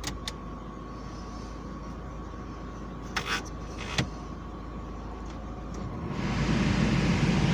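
2003 Volkswagen Beetle 2.0 idling with a steady hum heard from inside the cabin, a few light clicks near the middle, then about six seconds in the air-conditioning blower comes on and its rushing fan noise swells and holds steady.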